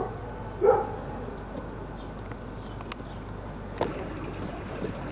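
A dog gives one short yip under a second in, then steady outdoor background noise with a single sharp click near four seconds.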